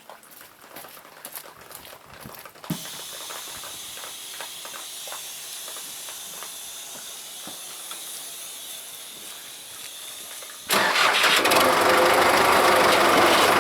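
A few faint clicks, then a steady hiss from about three seconds in. Near the end, a loud engine suddenly starts and runs steadily.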